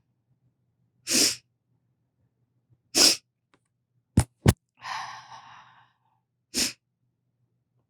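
A person's short, sharp bursts of breath, four of them spaced one and a half to two seconds apart. The third is longer and fades away, and two quick knocks come just before it.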